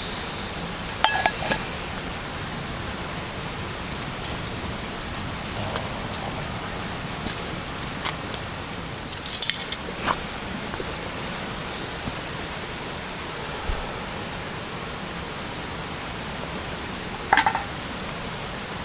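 Steady rain hiss, with metal cutlery clinking against a dish a few times, sharpest about a second in, near the middle and near the end.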